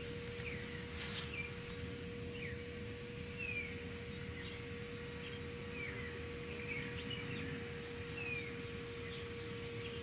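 Birds chirping, short falling chirps repeated about once a second, over a steady hum and low background rumble.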